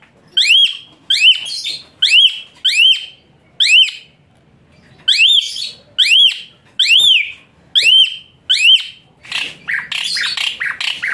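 Asian pied starling (jalak suren) calling: a series of about a dozen loud, shrill notes that each rise and fall in pitch, roughly two a second, breaking about 9 seconds in into a fast run of harsh chattering notes.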